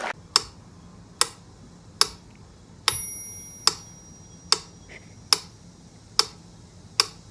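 A steady series of sharp ticks, about one every 0.8 seconds. About three seconds in, one tick is followed by a brief metallic ring.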